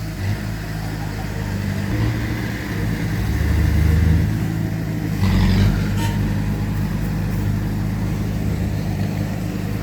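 Heavy diesel earthmoving machinery running, its low engine note swelling and easing under load several times, loudest about halfway through.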